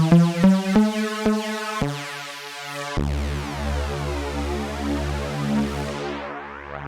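Jeannie polyphonic synthesizer playing a quick run of short, separate notes, then a held chord. A deep bass note joins about three seconds in, and the bright upper tones die away near the end.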